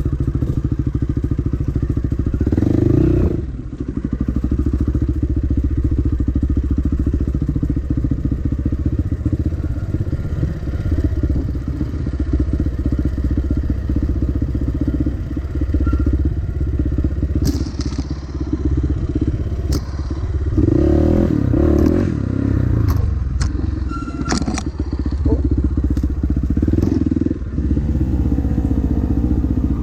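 Dirt bike engine running as it is ridden along a trail, easing off and picking up with the throttle, with a short dip about three and a half seconds in. Several sharp knocks and clatter from the bike over rough ground in the second half.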